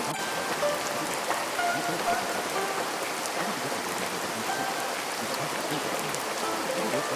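Steady rain falling, an even hiss, with soft, sparse single musical notes sounding faintly over it.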